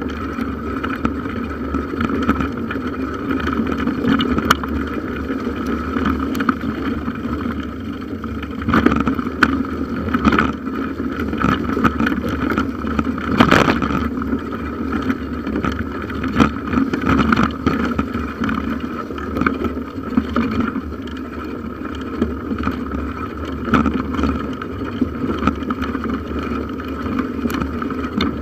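Bicycle ridden along a forest track, picked up at the handlebars: a steady rumble of tyres and wind on the microphone, broken by frequent knocks and rattles from bumps, with one harder jolt about halfway through.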